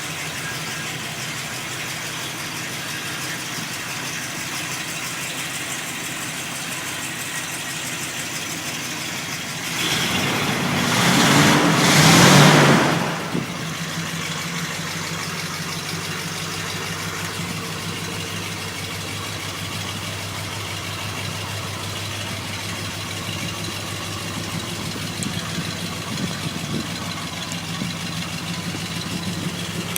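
1973 Buick Riviera's V8 idling steadily, its idle speed freshly turned down. About ten seconds in it rises in a brief surge lasting about three seconds, most likely a blip of the throttle, then drops straight back to idle.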